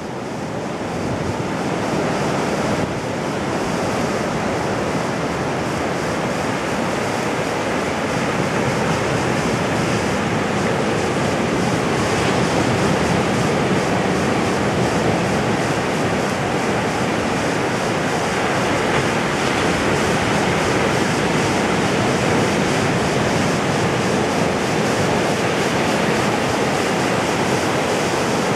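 Ocean surf breaking on a beach: a steady wash of wave noise that swells up over the first couple of seconds.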